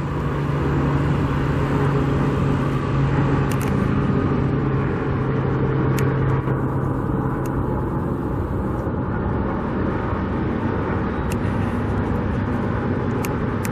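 Steady road traffic noise, cars and trucks passing, with a low engine hum that fades about halfway through.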